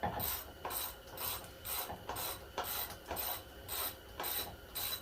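Ratchet wrench with a 7 mm socket clicking in steady back-and-forth strokes, about two a second, backing out a bolt to free the wiring from the PCM.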